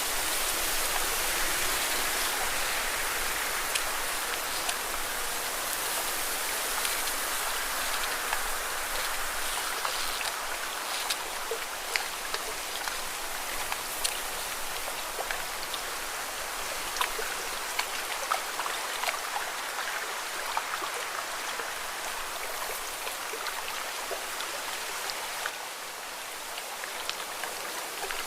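Lake water washing against rocks: a steady splashing hiss scattered with many small sharp splashes and drips, a little louder in the first third.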